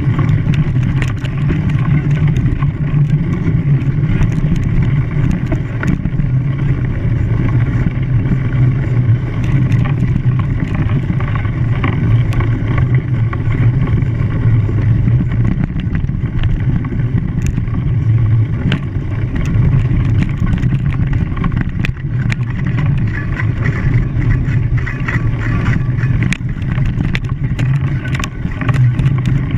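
An engine running steadily under load, with a constant low drone and many small clicks and rattles over it.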